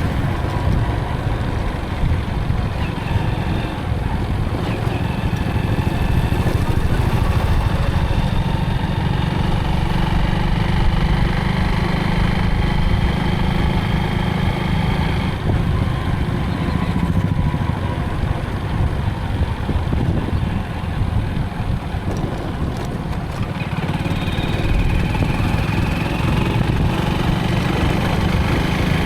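Motorcycle engine running steadily during a ride, with a heavy low rumble that eases slightly for a few seconds near the middle.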